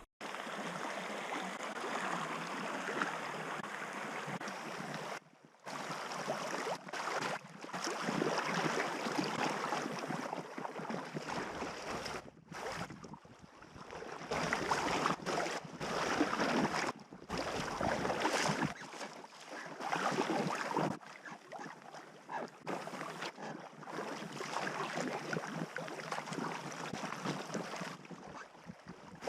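Packraft being paddled on the river: water splashing and lapping, with wind on the microphone. The sound comes as a string of short clips, each ending in an abrupt cut.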